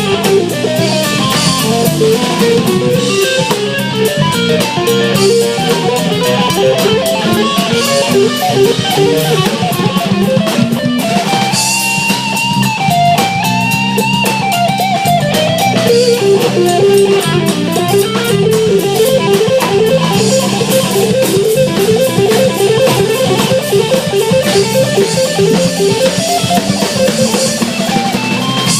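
Live rock band playing an instrumental jam: electric guitar lead lines, with some long bending notes near the middle, over bass guitar and a drum kit.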